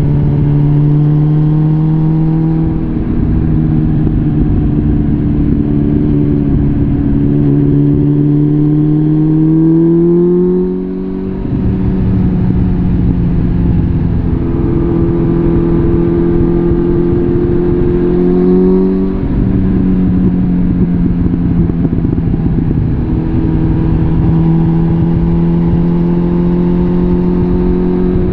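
Suzuki GSF650 Bandit's inline-four engine through a full Arrow exhaust, pulling steadily under throttle. The pitch slowly climbs, dips briefly at two gear changes (about eleven and nineteen seconds in) and climbs again.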